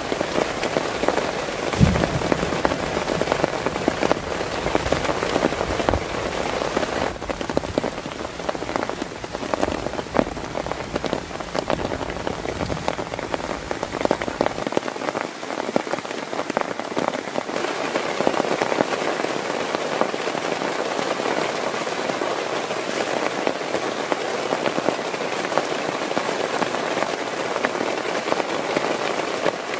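Heavy rain falling steadily, with many separate drop hits, and a single low thump about two seconds in.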